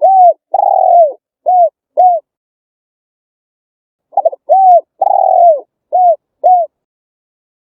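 Spotted dove cooing: two song phrases about four seconds apart, each a run of short arching coos with a longer drawn-out coo second in the row.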